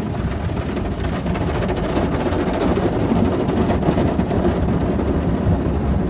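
Automatic car wash working over the car, heard from inside the cabin: a loud, steady rush of water and machinery against the body.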